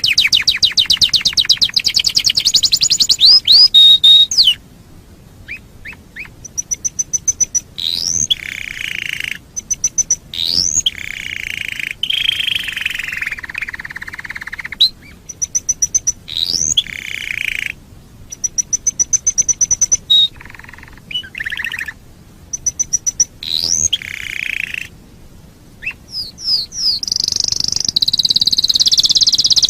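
Canary singing: a fast rolling trill at the start, then short phrases of rising whistled notes and rapid high rattles broken by brief pauses, and another long trill near the end.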